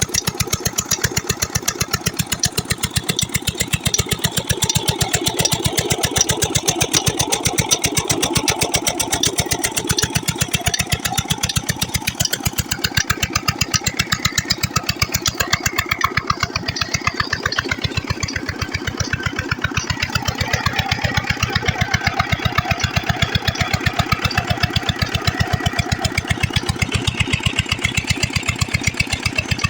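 Old Petter stationary diesel engine running steadily while driving a tubewell water pump, its firing strokes making an even, rapid beat.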